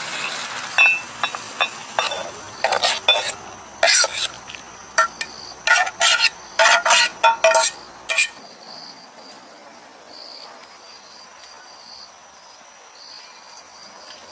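Metal utensil clinking and scraping against cookware in quick irregular strokes, stopping about eight seconds in. Crickets chirp faintly behind it.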